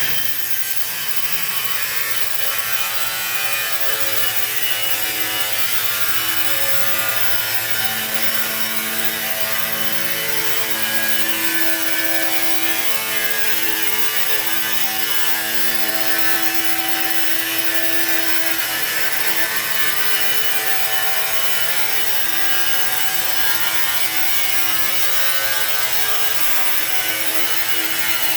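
A steady rasping, sawing-like noise with held tones in it that shift in pitch every second or two.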